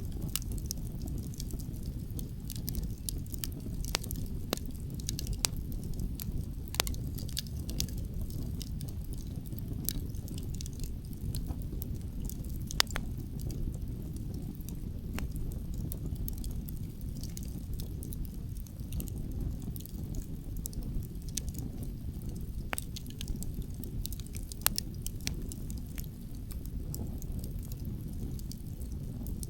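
Wood campfire crackling, with irregular sharp pops over a steady low rumble of wind.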